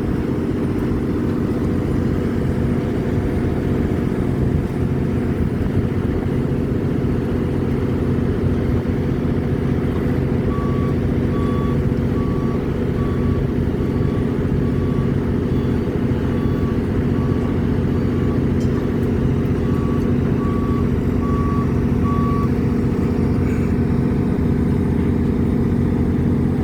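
Heavy construction machine's diesel engine running steadily, with a warning alarm beeping at an even pace, a bit more than once a second, for about twelve seconds in the middle.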